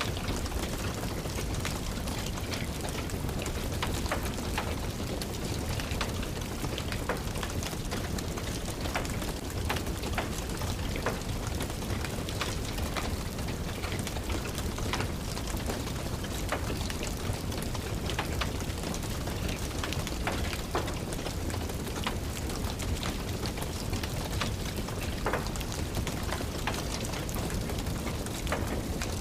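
Steady rain with a wood fire crackling: an even hiss of rain with frequent small, sharp pops and ticks scattered through it.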